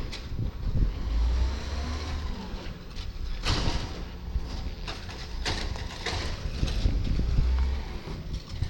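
Garbage truck running with a low, steady engine rumble, broken by two short hissing bursts of noise.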